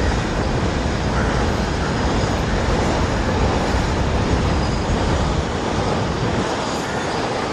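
Container wagons of a freight train rolling past on the rails, a steady rolling rumble of wheels on track. The deep rumble thins out near the end as the last wagons go by.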